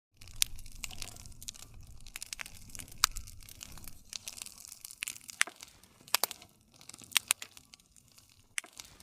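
Wood fire crackling, with sharp irregular pops and snaps over a soft hiss and low rumble of the burning.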